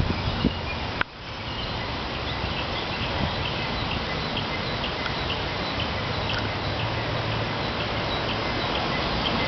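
Steady rumble of an approaching Rotem Silverliner V electric commuter train, growing slowly louder. A short high chirp repeats about three times a second over it. The sound drops out briefly about a second in.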